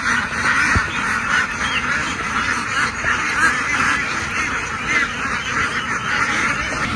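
A large flock of domestic ducks quacking all at once: a dense, continuous chorus of overlapping calls with no pauses.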